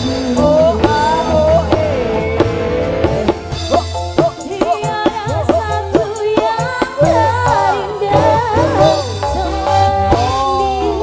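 Dangdut band music: a wavering, bending lead melody over drums and a steady bass line.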